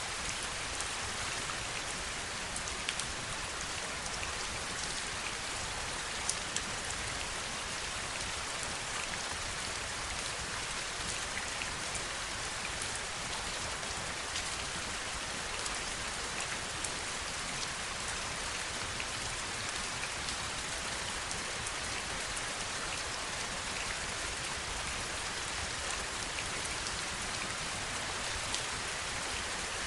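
Steady heavy rain falling, an even hiss with scattered sharper drop ticks standing out.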